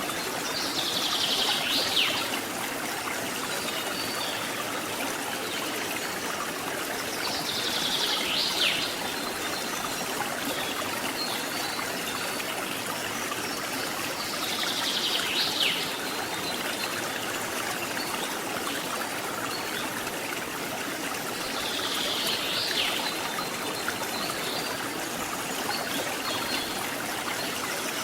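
Steady rush of water from a waterfall and its stream. About every seven seconds a high, rising buzzy call swells and cuts off abruptly, four times in all.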